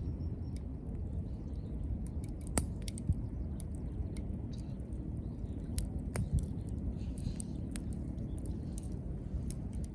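Wood fire crackling: a stream of small sharp pops and snaps over a steady low rumble, with a couple of louder pops.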